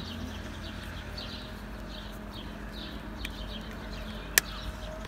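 Small birds chirping over and over in the background above a steady low hum, with one sharp click about four seconds in.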